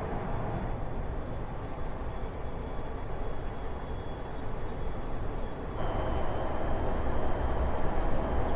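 Steady vehicle running noise: a low rumble under an even rushing hiss, stepping up a little louder about six seconds in.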